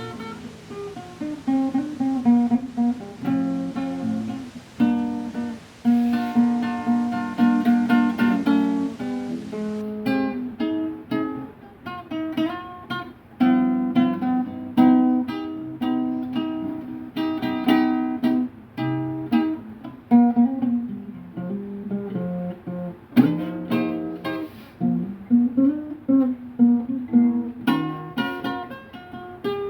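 Solo guitar played as a free improvisation: single plucked notes and short strummed chords, each ringing and fading before the next.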